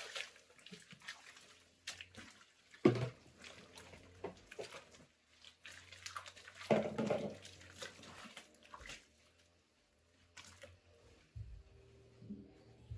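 Scattered knocks, scrapes and small splashes of hands and containers working with water, with one sharp knock about three seconds in and a louder splashy stretch a little past the middle.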